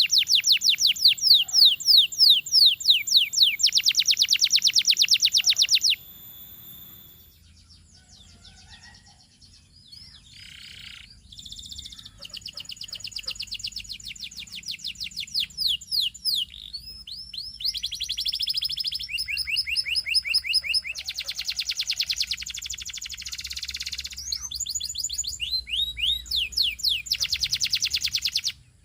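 Canary singing in fast trills of rapidly repeated chirps and rising sweeps. The song is loud for the first six seconds and goes quiet at once, leaving a spell of scattered softer notes. The trills resume about twelve seconds in and run on until they cut off abruptly near the end.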